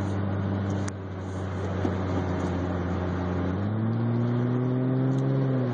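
Toyota 1JZ-GTE twin-turbo inline-six running under way, steady at first, then revving up about three and a half seconds in with its pitch climbing, and dropping off sharply at the end.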